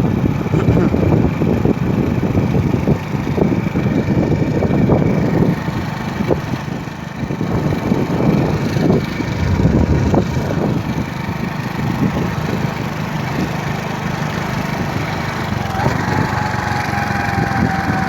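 Motorcycle engine running steadily during a ride, with wind noise on the microphone; near the end a thin whine glides slowly down in pitch.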